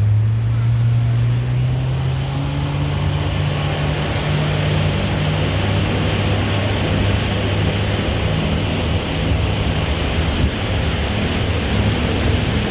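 Tour boat's engine speeding up, its pitch rising over the first couple of seconds, then running steadily at cruising speed, with water rushing along the hull.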